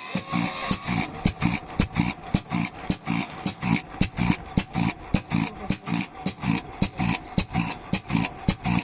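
Vintage Japanese stationary kerosene engine (石油発動機) just started by hand cranking, running with evenly spaced exhaust beats at about four a second.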